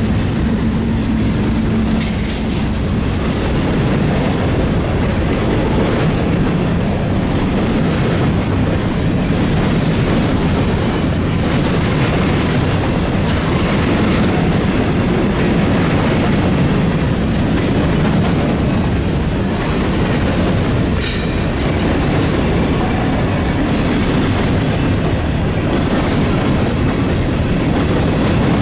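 Freight train cars rolling past, steel wheels going clickety-clack over the rail joints in a steady run, with a brief sharp screech about 21 seconds in.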